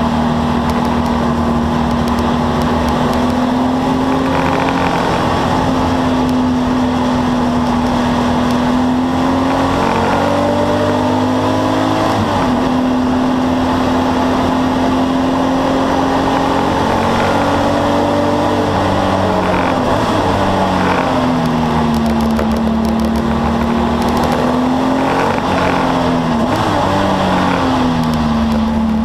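Porsche 964's air-cooled flat-six engine running hard, heard from inside the race car's stripped cockpit over tyre and road noise. It holds high revs, and its pitch drops and climbs again about three times as the car slows for corners and accelerates out of them.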